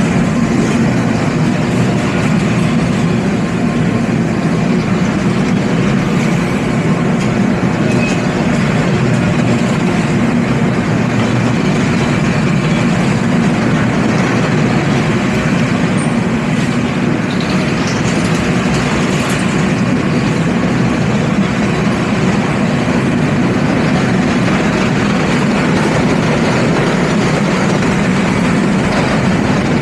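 Freight train rolling past, the steady, unbroken noise of its cars' wheels on the rails.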